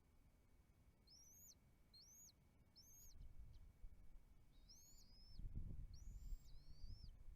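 A series of about seven high, thin bird calls at the nest, each rising and then dropping, roughly one a second from about a second in. A low rumbling noise builds over the second half.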